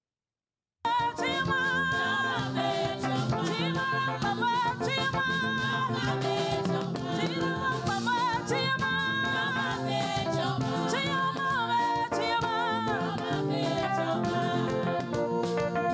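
Dead silence for under a second, then a choir singing a gospel praise song, with instruments underneath, starts abruptly and carries on steadily.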